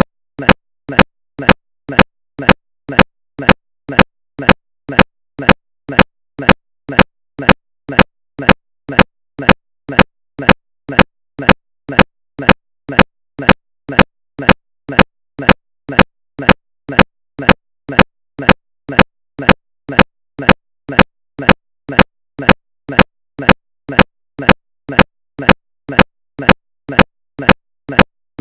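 A steady, mechanical-sounding repeating beat: short sharp strikes, loud and softer ones alternating, several a second, never changing in tempo.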